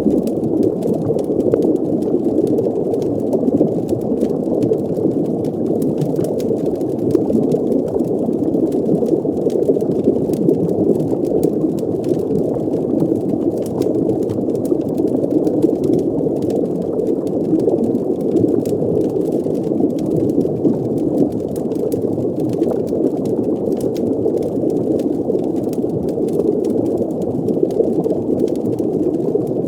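Designed underwater fireplace ambience: a steady, muffled rushing, like a fire heard through water, with faint crackles scattered through it.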